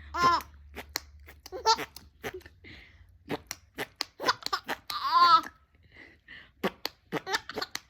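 Four-month-old baby giggling in a few short, high-pitched bursts, the longest about five seconds in, amid a string of sharp clicks.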